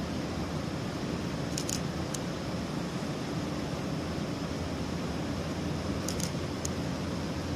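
Steady rumble of an electric commuter train running at a station platform, with two small groups of short, sharp clicks about four seconds apart.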